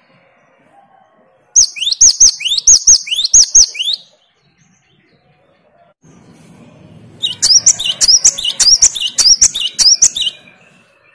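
Gelatik batu (great tit, Parus major) singing: two bouts of quick, repeated high whistled phrases, the first starting about a second and a half in and the second about seven seconds in.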